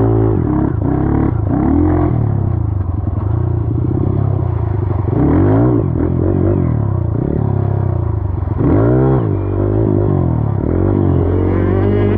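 Dirt bike engine being ridden with the throttle worked on and off, its pitch rising and falling every second or so over a steady low drone.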